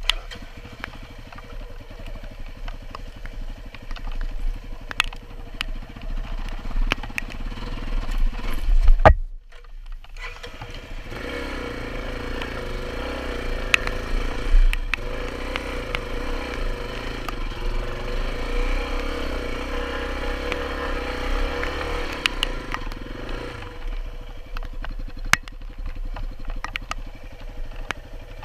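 Dual-sport motorcycle engine revving hard under load as the bike struggles through deep mud, with the revs rising and falling. Scattered clicks and knocks are mixed in. The sound drops out sharply for about a second near the middle, then the engine runs hard again for about ten seconds before easing off.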